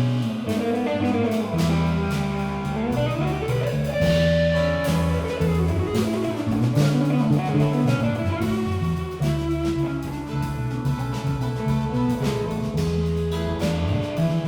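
Live band playing an instrumental passage: guitar lines that slide up and down over a stepping bass line and a drum kit with cymbal hits.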